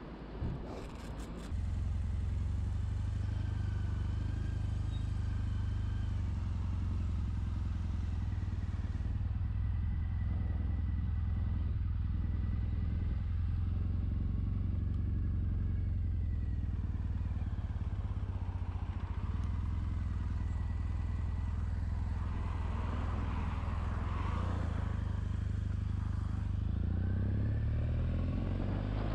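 Triumph Bonneville SE's 865cc parallel-twin engine: a few clicks, then it starts about a second and a half in and idles steadily. Near the end the revs rise as it pulls away.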